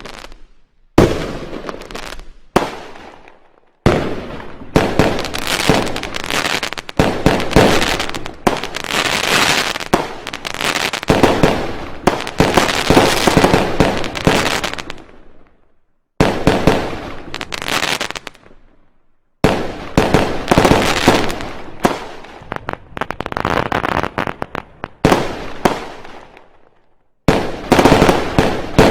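Fireworks going off in dense volleys of rapid bangs and crackling. There are several runs of a few seconds each, separated by short silent gaps.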